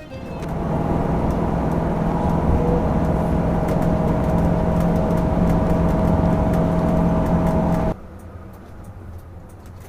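A road vehicle running steadily with a constant engine drone over road noise, cutting off abruptly near the end to a much quieter steady noise.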